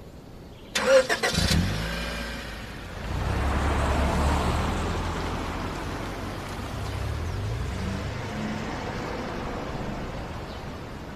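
A quick cluster of sharp knocks, like a car door shutting, then a car engine running and the car pulling away, its sound swelling and slowly fading.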